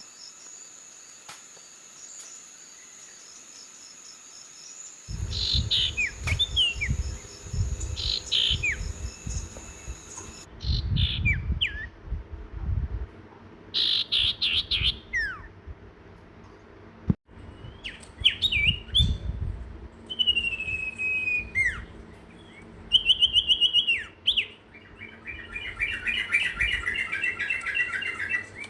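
Small birds chirping and calling: short, sharp notes that drop in pitch, heard in a series of changing clips. A thin steady high tone runs through the first few seconds, a low rumble sits under the calls from about five seconds in, and a rapid run of notes comes near the end.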